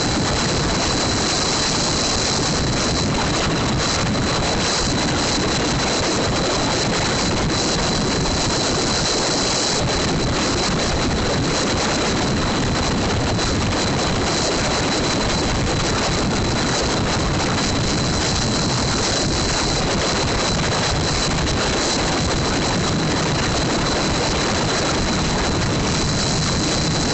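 Wind rushing over the microphone on a moving motorcycle, with the engine running underneath, steady throughout.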